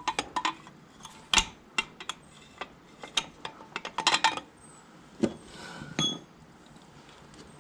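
Small metal parts and hand tools clinking and tapping as they are handled: irregular sharp clicks, with a quick cluster about four seconds in and a brief metallic ring near six seconds.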